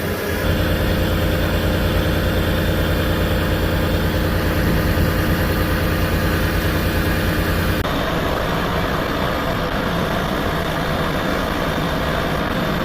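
Heavy lorry diesel engine running steadily with a deep low hum. About eight seconds in the sound changes abruptly to a rougher, noisier running.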